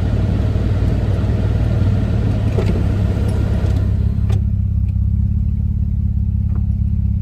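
Car engine and road noise heard from inside the cabin: a steady low hum with a wider rush of road noise over it that drops away about four seconds in, leaving only the low hum, with a single short click just after.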